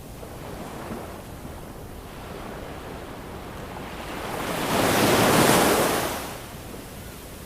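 Ocean waves on a shore: a low steady wash of surf, with one wave swelling and breaking about four to six seconds in, then subsiding.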